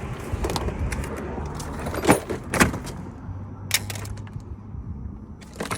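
A few sharp knocks and clinks of brake parts and tools being handled, the loudest about two seconds in and again half a second later.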